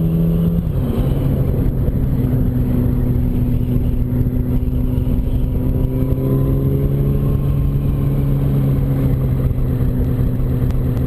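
Yamaha R1 inline-four engine running under way. Its revs drop about a second in, then hold fairly steady through a long stretch of road, over a dense rush of wind noise.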